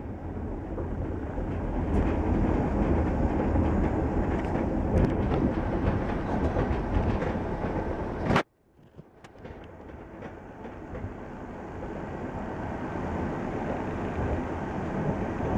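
Steady running rumble of an ÖBB Railjet passenger train heard from inside the carriage. About eight seconds in it cuts off suddenly after a sharp crackle, then comes back in gradually.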